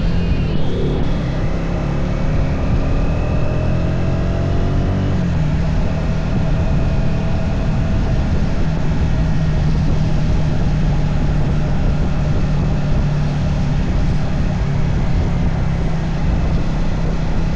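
Triumph Speed 400's single-cylinder engine on the move: a gear change about half a second in, then the engine note rises steadily for about four seconds as the bike accelerates, then settles into a steady cruise. Heavy wind rush runs underneath.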